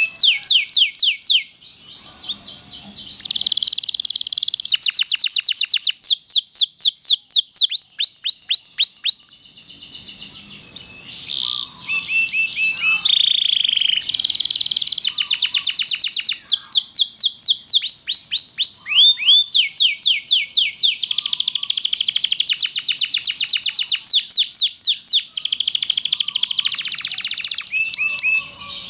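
Domestic canary singing a long song of rapid trills and rolls: runs of quickly repeated sweeping notes, several a second, broken by two brief softer passages.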